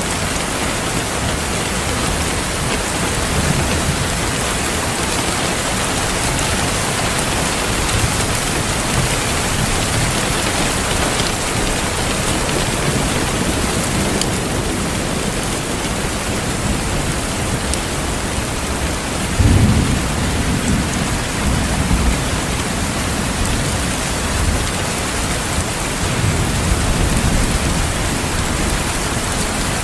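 Steady heavy rain with low rolling thunder. A louder thunder clap breaks in about two-thirds of the way through, and further rumbles follow near the end.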